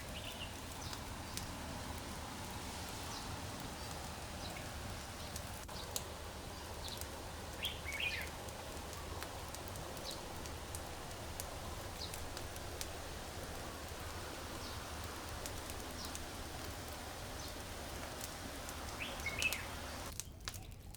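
Steady rush of waterfall water, with short bird chirps a few times, near the start, about eight seconds in and near the end. The water sound falls away abruptly just before the end.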